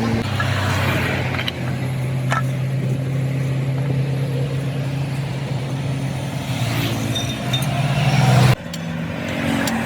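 An engine running steadily, growing a little louder and then cutting off suddenly about eight and a half seconds in, with a light metallic clink about two seconds in.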